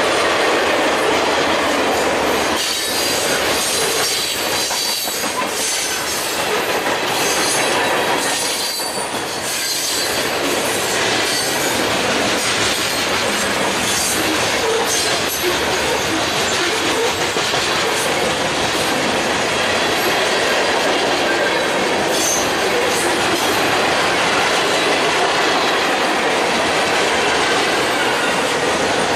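Cars of a mixed freight train rolling past close by: a steady rumble and rattle of steel wheels on rail. A few seconds in, a thin high wheel squeal comes and goes for several seconds.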